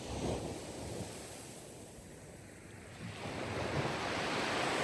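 Sea waves washing on a shore: one wave dies away over the first two seconds, and the next swells up about three seconds in.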